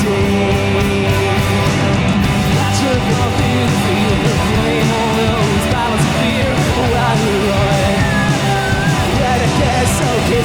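Live rock band playing an instrumental passage: loud electric guitars and drums, with a guitar lead line bending in pitch.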